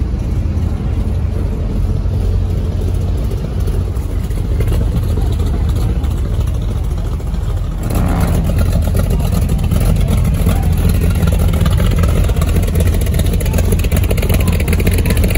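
Car engine idling with a steady low rumble. The sound shifts abruptly about eight seconds in.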